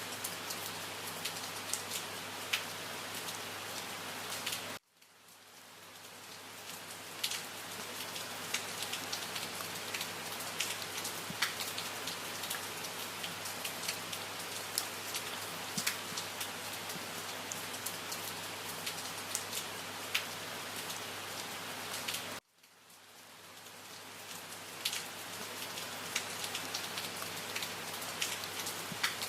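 Steady rain falling, with individual drops ticking sharply against a surface over the even hiss. The sound cuts out abruptly twice, about five seconds in and again near the end, each time swelling back in over a couple of seconds.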